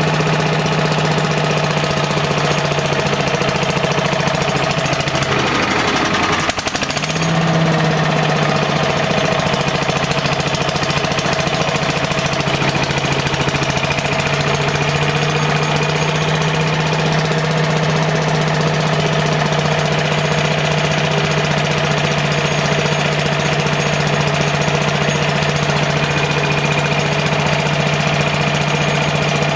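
Briggs & Stratton 205 cc single-cylinder engine of a DR leaf and lawn vacuum running steadily after a cold start from four months' storage. Its speed dips and picks back up about six seconds in, then evens out.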